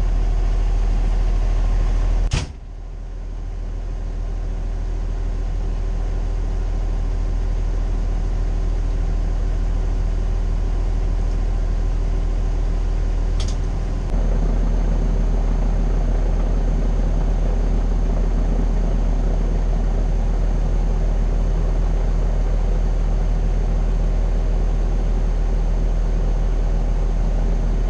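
Cummins L9 diesel of a Pierce Saber fire engine running with a steady low drone. A sharp click comes about two seconds in; the sound dips right after it, builds back slowly, and steps up again about fourteen seconds in.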